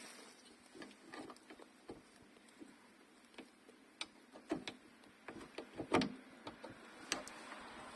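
Scattered clicks and light knocks of sunroof mechanism parts being handled and fitted back into place by hand, the loudest knock about six seconds in.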